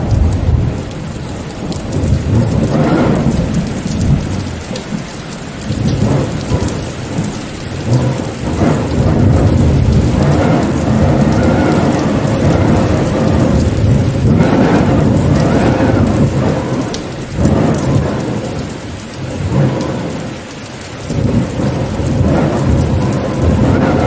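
Heavy rain falling steadily, under a deep rumbling that swells and eases every few seconds.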